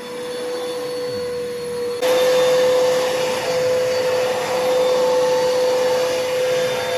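Bissell PowerForce Bagless 6583 upright vacuum cleaner running with a steady motor whine; about two seconds in the sound becomes suddenly louder and rushier, then holds steady.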